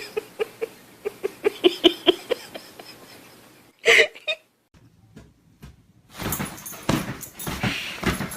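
An animal giving a quick run of short, high calls, about four or five a second, then a single louder call; a few seconds later comes a stretch of scuffling and knocking.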